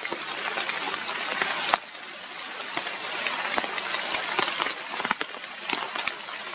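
Rain falling on forest leaves: a steady hiss with many sharp ticks of drops striking, which drops suddenly in level a little under two seconds in.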